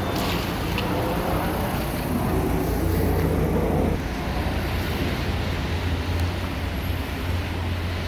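Steady mechanical running with a strong low hum at a rollover car wash; a mid-pitched part of the noise stops about four seconds in while the low hum carries on.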